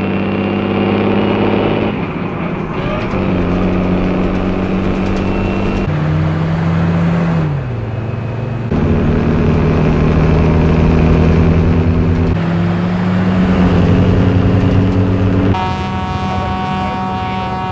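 Motor vehicle engines running at steady speeds in several abruptly cut segments, with the pitch dropping twice, near the middle and about three quarters in, as if slowing down. Near the end a brighter, higher-pitched engine note takes over.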